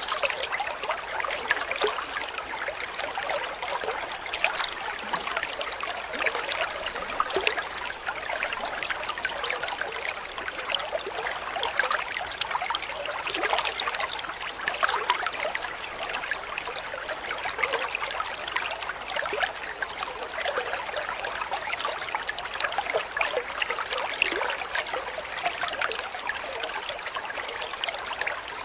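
Stream water running and trickling, a steady babble with no break.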